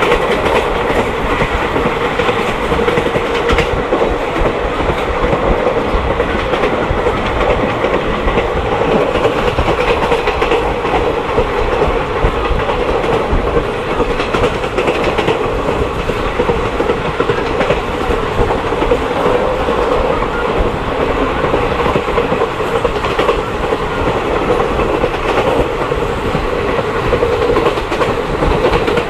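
Passenger train running along the track, heard from on board: a steady rumble of wheels on rails with a clickety-clack over the rail joints.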